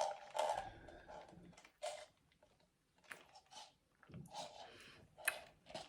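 Close-miked eating sounds: soft, scattered chewing and mouth noises in short bursts with quiet gaps between them.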